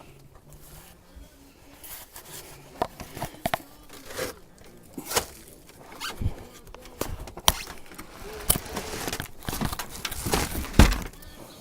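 Irregular knocks, clicks and scraping as a chicken brooder is closed up by hand, with rustling handling noise; the loudest thump comes near the end.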